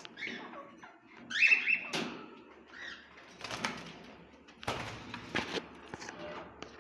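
Caged pet birds chirping and calling, with short wing flutters and rustling. There are several brief calls, the loudest about a second and a half in.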